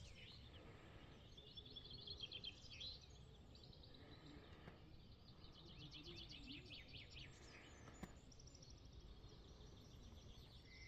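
Faint songbird song: quick trilled phrases, one burst about two seconds in and a longer run from about five to seven and a half seconds in, over a steady low rumble. A single short click about eight seconds in.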